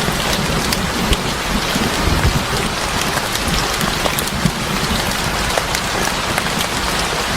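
Steady rain falling, with many scattered sharp ticks and pops over a low rumble.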